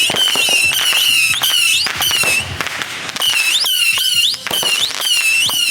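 Fireworks going off: a string of short, shrill whistles, several a second, each dipping and then flicking up in pitch, over a steady crackle of sharp pops.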